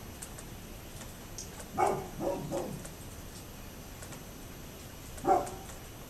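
A dog barking: three barks in quick succession about two seconds in, then a single bark near the end.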